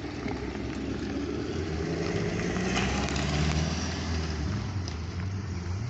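Chevrolet Camaro's engine pulling away past the camera. The engine note grows louder, peaks a little past halfway, then eases off.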